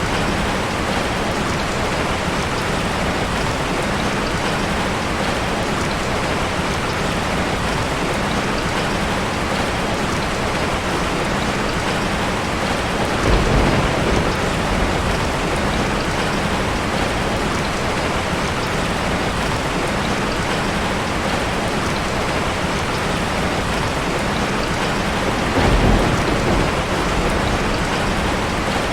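Heavy rain falling steadily in a dense, even hiss. Two brief low rumbles of thunder break through, about halfway through and near the end.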